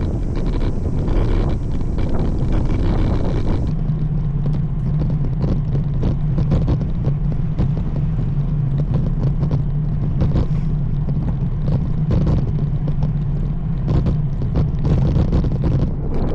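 Wind rushing over the microphone and low road rumble from a road bike being ridden; the higher hiss drops away about four seconds in, leaving a steady low hum.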